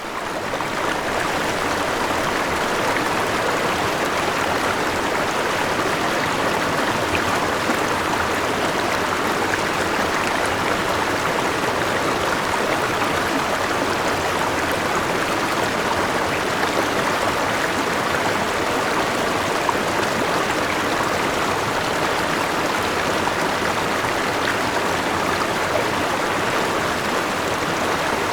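River water flowing steadily: a dense, even rush of water that fades in over the first second and then holds level.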